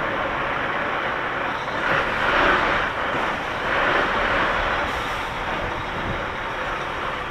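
Steady engine and road noise of an HGV lorry heard from inside its cab while it drives slowly, swelling a little twice midway.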